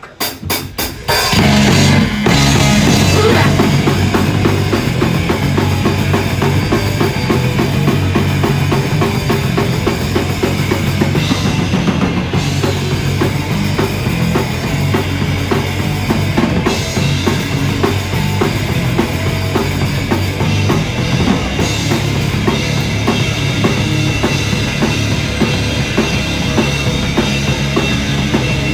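Live rock band launching into a song: a quick run of sharp hits, then about a second in the full band comes in loud, with a driving drum kit over dense bass and guitars, recorded on a phone.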